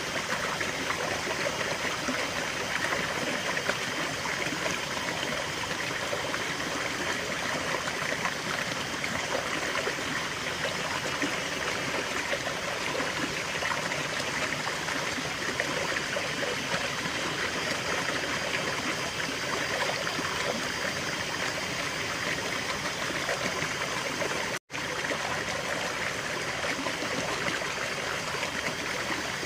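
River water flowing, a steady rushing sound with a brief drop to silence about twenty-five seconds in.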